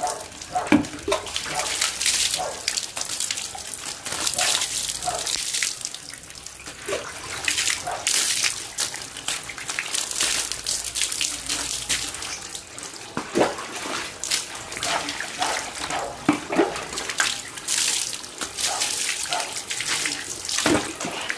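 Water from a tap running and splashing while a dog is washed in a bath, with frequent short splashes throughout.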